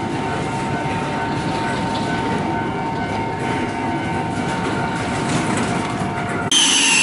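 A train at a station platform: a steady rumble with faint steady tones. Near the end it turns abruptly louder, with a high whine that falls steadily in pitch.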